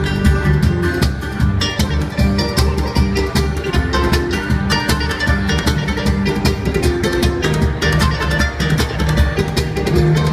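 Bluegrass-style band playing an instrumental break live: fast plucked acoustic strings over a bass line and a steady beat.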